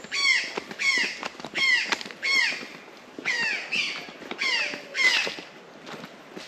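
A bird calling over and over: a string of about ten loud calls, each falling in pitch, at roughly one and a half a second.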